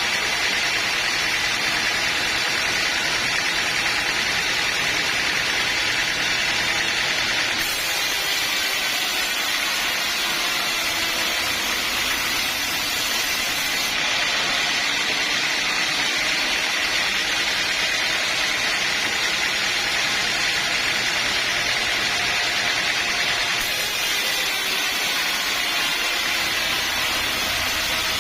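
Sawmill saw running steadily, a loud, even mechanical noise with a strong hiss. The top end of the hiss brightens and dulls abruptly a few times.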